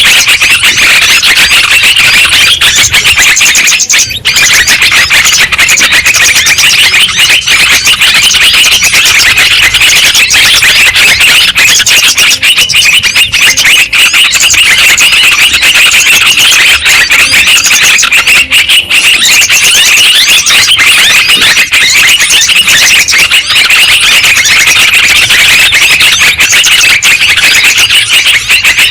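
Yellow-vented bulbuls (trucukan) chattering, many quick bubbly calls overlapping with no break. This is a bulbul lure recording, played to draw the birds in and set them calling.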